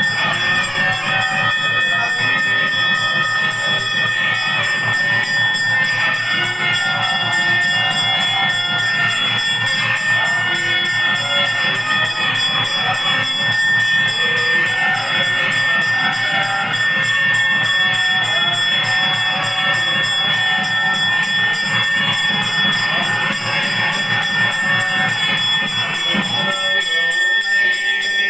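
Hindu temple worship music: bells ringing over a fast, steady low rhythm and a held high tone. The low rhythm drops out about two seconds before the end.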